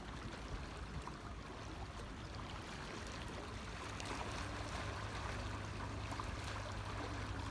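Steady rushing of flowing water, like a stream, with faint scattered ticks over it.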